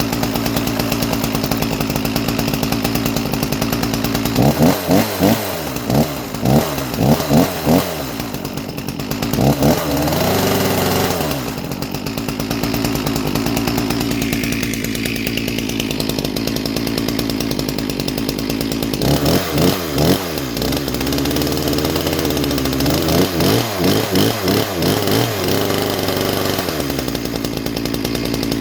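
Farmertec G366 two-stroke chainsaw, ported with raised timing and opened transfers, running on its first start: it idles, and the throttle is blipped in quick rising-and-falling revs in two bursts, about four seconds in and again around twenty seconds in.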